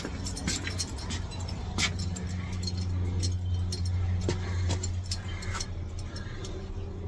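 Someone rummaging through tools and parts while searching for something: scattered small clinks and knocks over a steady low hum.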